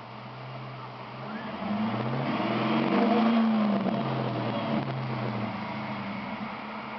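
Dodge Charger R/T's 5.7-litre Hemi V8 idling, then blipped once: the revs climb from about a second and a half in, peak near three seconds and fall back to a steady idle by about five seconds.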